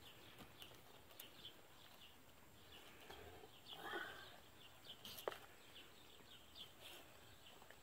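Near silence with faint, repeated chirps of small birds and a single sharp click a little after five seconds.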